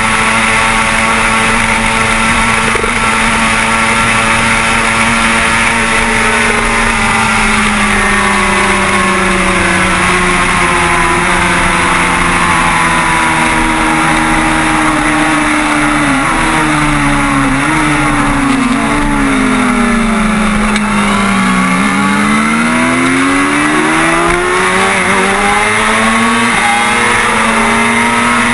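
Kawasaki ZX-6R 636 inline-four sport-bike engine running hard, heard onboard over heavy wind rush. The engine note holds steady, then drops gradually through the middle with a few brief jumps in pitch, and climbs again over the last several seconds as the bike accelerates.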